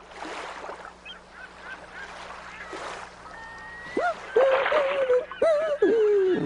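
A faint hiss, then from about four seconds in a run of short, loud, goose-like honking calls that bend up and down in pitch.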